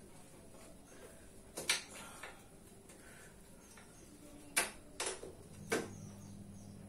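Four sharp knocks, a few seconds apart, with the last three close together. A low steady hum comes back in near the end.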